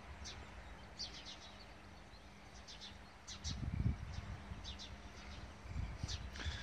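Small birds chirping in short bursts, several times, over faint outdoor background noise. A couple of low thuds come about three and a half seconds in and again near the end.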